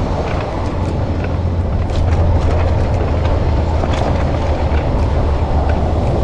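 Steady wind rumble on the microphone with rolling noise while riding a Bird e-bike, and a few faint clicks.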